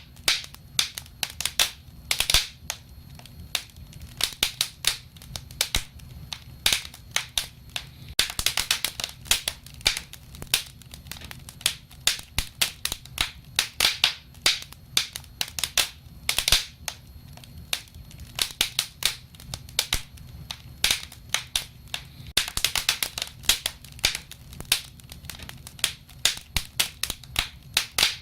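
Wood fire crackling, with sharp irregular pops and snaps that come in quick flurries at times, over the low steady rumble of the burning.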